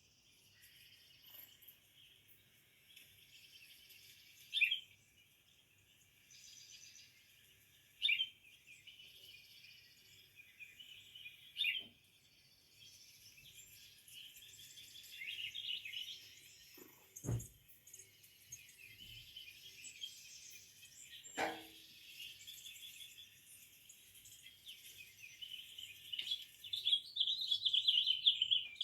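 Small birds chirping and calling, with several loud single chirps and a busier burst of calling near the end. Two short, lower sounds cut in about two-thirds of the way through, a thump and then a brief falling sound.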